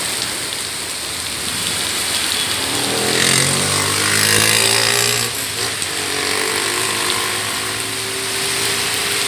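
Heavy rain mixed with hail falling steadily, with a motor vehicle driving past on the wet street from about three seconds in, its tyres hissing loudest around four seconds and its engine note carrying on to near the end.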